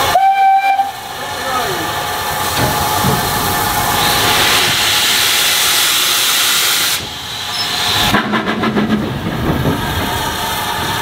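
Ex-Somerset & Dorset Joint Railway 7F 2-8-0 steam locomotive 53809 working, with steam hissing throughout and a short whistle note at the very start.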